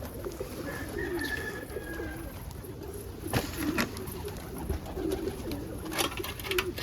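Homing pigeons cooing in a loft, several low wavering coos one after another, with a few sharp knocks or wing claps among them.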